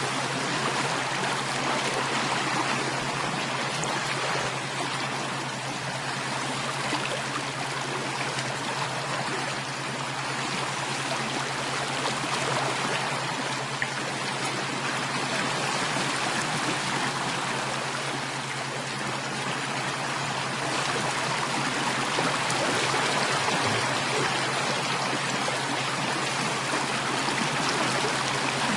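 Water running steadily, like a stream flowing over stones, an even rushing and trickling that does not change.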